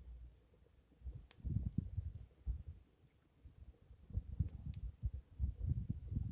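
Wind buffeting the microphone in irregular low rumbles over a bonfire. A few sharp, faint clicks of the fire crackling come through, about a second in and again past the middle.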